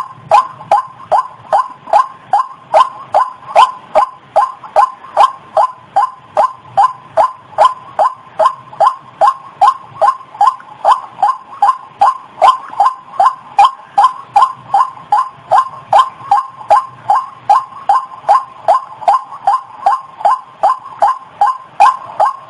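White-breasted waterhen calls used as a lure call: a monotonous, evenly repeated string of short notes, about two and a half a second, without a break.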